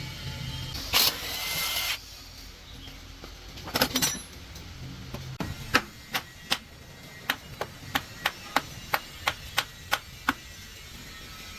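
Hammer blows on metal gearbox parts: a run of sharp, evenly spaced strikes, about three a second, in the second half. Before them come a short hiss about a second in and a couple of knocks near four seconds.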